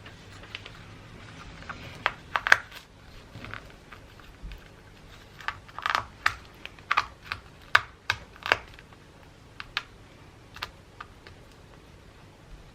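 Gift wrapping being handled: a scattered run of sharp crinkles and clicks, bunched about two seconds in and again from about six to nine seconds, with a few lone ones after.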